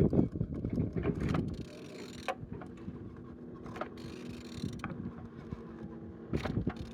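Used engine being turned over by hand: irregular clicks and clunks from the rotating engine over a steady low hum, a sign that it turns freely.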